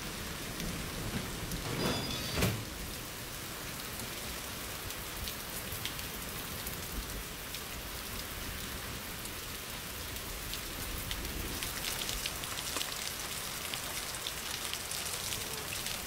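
Heavy rain falling steadily, an even patter of drops. About two seconds in there is a brief thump.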